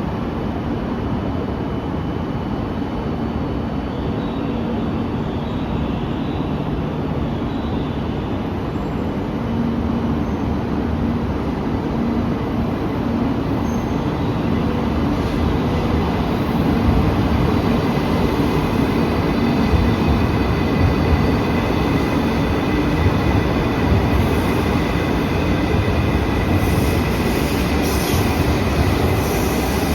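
E2 series Shinkansen train pulling away from a station platform: steady rumble and running noise that grows a little louder about halfway through, where a set of steady high whining tones from the traction equipment appears as it picks up speed.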